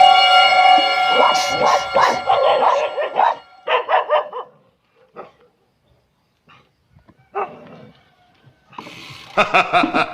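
A dog barking in a dense run of barks, then a few scattered short barks, then another burst of barking near the end.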